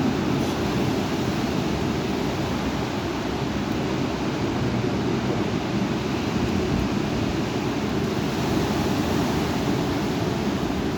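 Strong thunderstorm wind blowing steadily, with a deep rumble of wind buffeting the microphone.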